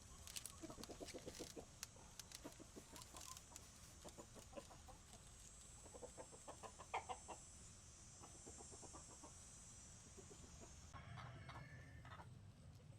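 Chickens clucking faintly in short runs of rapid clucks, over a steady high-pitched hiss that stops about eleven seconds in.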